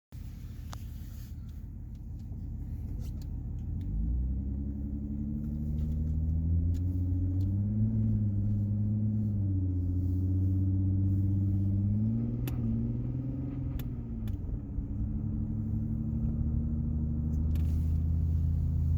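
Car engine and road noise heard from inside the moving car, the engine's pitch climbing from about four seconds in and dipping and rising again a couple of times as the car speeds up and changes gear.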